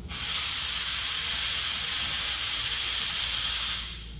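A loud, steady hiss of blowing air that starts abruptly and stops after about three and a half seconds.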